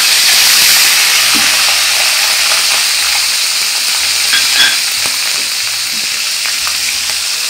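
Onion paste sizzling hard as it hits hot oil in a metal karahi, with a steady loud hiss and the odd scrape of a metal spatula stirring it.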